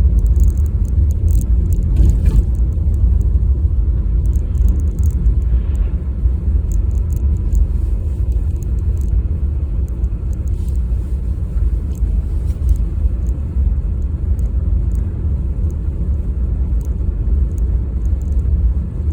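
Car driving on a snowy road: a steady low rumble of road and engine noise.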